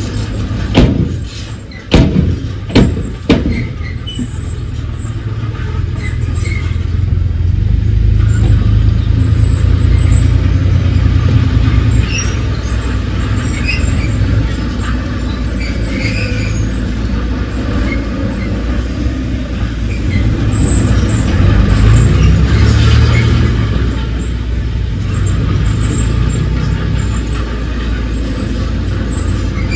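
Heavy diesel engine of earthmoving machinery running steadily. There are several sharp metallic clanks in the first few seconds, and the engine note swells briefly about twenty-two seconds in.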